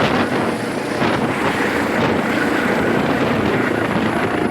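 Helicopter running close by: a loud, steady rush of rotor and engine noise, with wind buffeting the microphone.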